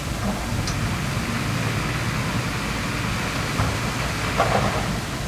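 Heavy diesel earthmoving machine running steadily with a low drone, with two short knocks in the second half.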